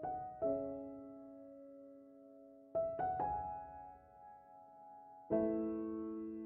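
Slow, gentle solo piano music: soft chords struck every couple of seconds and left to ring and fade.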